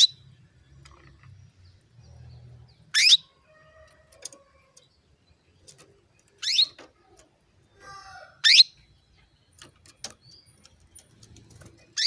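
Female domestic canary calling: short, sharp calls that sweep upward in pitch, repeated every two to three seconds, with faint soft chatter between them.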